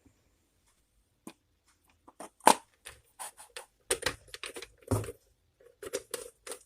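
Irregular clicks, taps and scrapes of ceiling-fan parts being handled and fitted back together, starting about two seconds in and growing busier.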